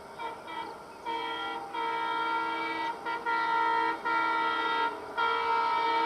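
Train horn sounding a series of blasts: two short toots, then several longer blasts of about a second each with brief gaps between them.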